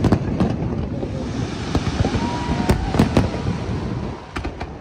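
Aerial fireworks display: a continuous rumble of shell bursts with sharp bangs at the start and again around two to three seconds in, and crackling in between, easing off in the last second.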